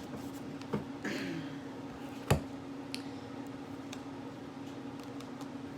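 A few light taps and clicks from tarot cards being handled and laid down, the sharpest about two seconds in, over a steady low hum.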